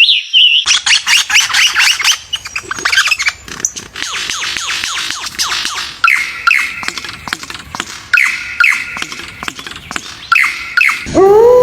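Birds calling: a dense run of quick high chirps and squawks, then repeated short, clear calls from about halfway through.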